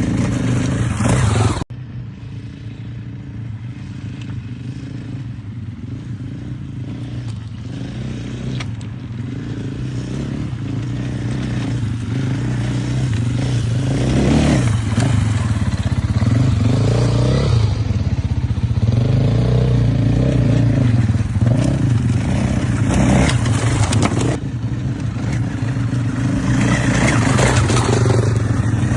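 Motocross motorcycle engine running under riding, with revs rising and falling. The sound breaks off abruptly and changes twice, about two seconds in and again near the end.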